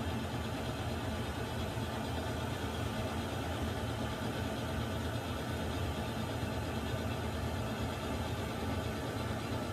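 Water heater running continuously: a steady low hum with an even hiss above it, unchanging throughout.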